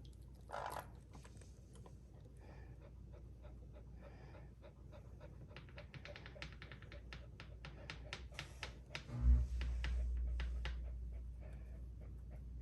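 A dog panting in quick, rapid breaths. About nine seconds in there is a thump, followed by a low rumble.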